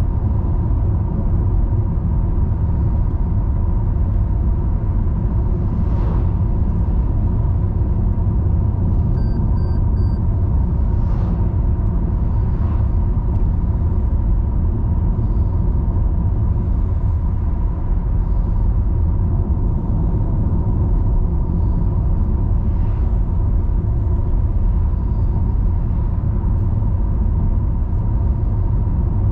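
Steady low rumble of a car driving, its engine and tyres on the road. Three short high beeps sound about nine seconds in.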